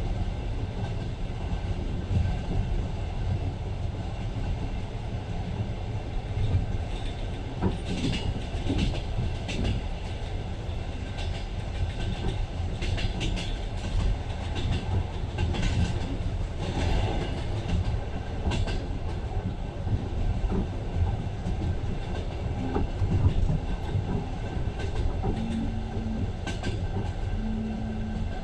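Moving passenger train heard from inside the carriage: a steady low rumble of the wheels on the rails, with sharper clicks and rattles in the middle stretch.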